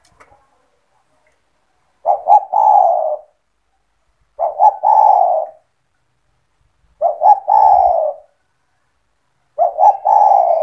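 Spotted dove (tekukur) cooing: four phrases about two and a half seconds apart, each two short notes followed by a longer coo.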